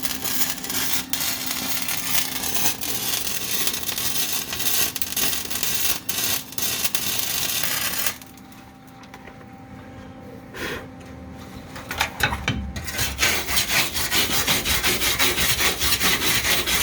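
Wire-feed welder arc on steel torque boxes: a steady crackling sizzle for about eight seconds, a pause with only a faint steady hum, then a second weld starting about twelve seconds in. The arc runs evenly, welding well now that the ground cable is fixed.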